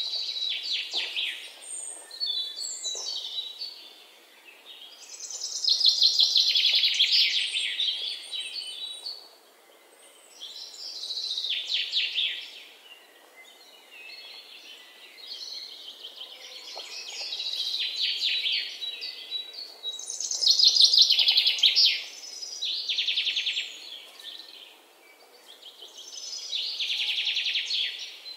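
Birds singing: high trilled and chirping phrases in repeated bouts a few seconds apart, with short lulls between them.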